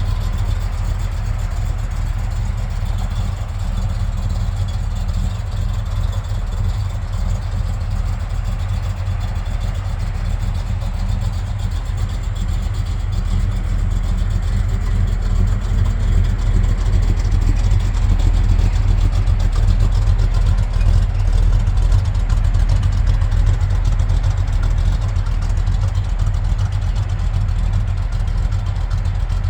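Chevrolet small-block 400 V8 with a big cam idling steadily, still cold shortly after a cold start.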